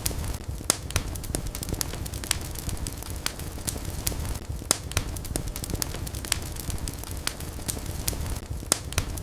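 Wood fire burning in a fireplace, crackling and popping with irregular sharp snaps over a steady low rumble of flames.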